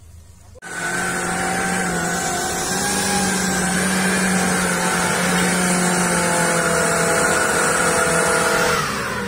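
Suzuki Jimny 4x4 engine running at high, steady revs under load on a muddy trail. It starts suddenly about half a second in and winds down near the end with a falling pitch.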